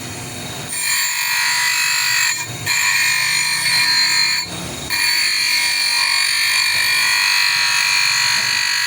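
A high-pitched power tool running in three stretches, starting about a second in, with two short breaks between them.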